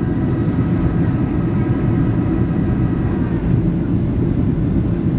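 Steady low cabin rumble inside a Boeing 737-800 on approach, from airflow and its CFM56-7B engines, with a faint steady whine that fades out about halfway through.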